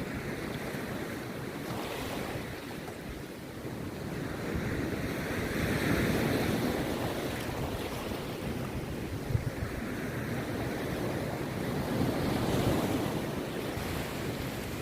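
Rough sea waves breaking on a beach, the surf swelling louder twice, about six and twelve seconds in, with wind buffeting the microphone.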